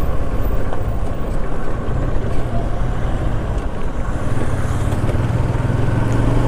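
TVS Apache RTR 160 single-cylinder motorcycle engine running steadily while riding, under a dense rush of road noise; the engine note holds steady and grows a little stronger in the second half.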